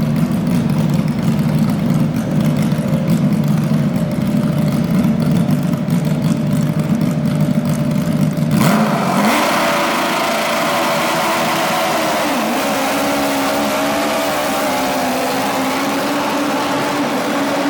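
Modified garden tractor engine running hard with a rapid low firing pulse. About halfway through the low pulsing cuts off abruptly, leaving a higher, steadier engine tone with a hiss.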